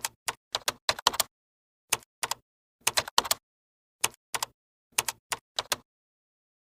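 A run of sharp, irregular clicks like keys being typed on a keyboard, about twenty in uneven bursts with dead silence between. They stop about a second before the end.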